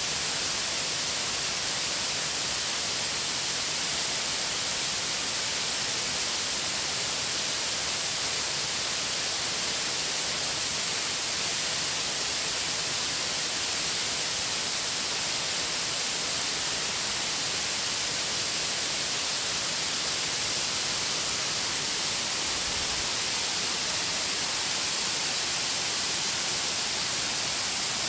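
Waterfall cascade's falling water making a steady, even, bright hiss, unbroken throughout.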